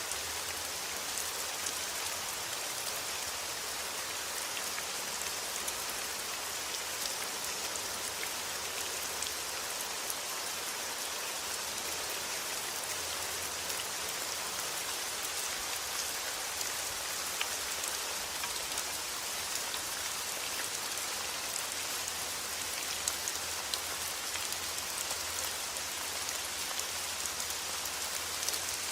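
Steady rain falling: a dense, even hiss with many small raindrop ticks scattered through it.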